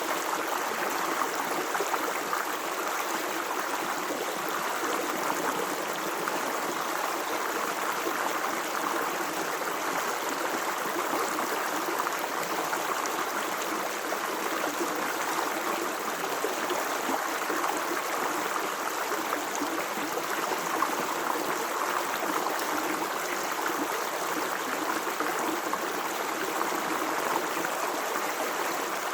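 Water flowing in a stream, a steady, unbroken rush.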